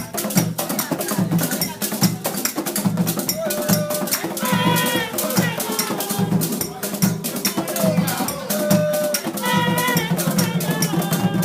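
Borborbor music: an iron bell and drums keep a steady, dense rhythm, with a pitched melody line coming in over it around four seconds in and again around nine seconds.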